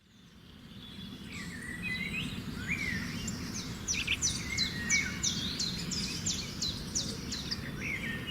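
Songbirds singing and calling: scattered chirps and whistles, with a fast series of about a dozen sharp, downward-slurred notes in the middle, over a steady low background rumble. The sound fades in at the start.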